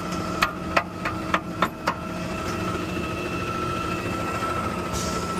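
Peterbilt garbage truck's diesel engine idling, with a steady whine over the hum. A quick run of sharp clicks comes in the first couple of seconds.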